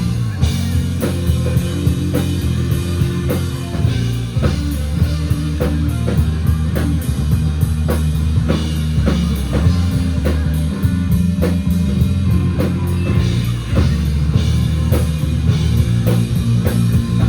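Live rock band playing an instrumental passage: drum kit keeping a steady beat under electric guitars and bass.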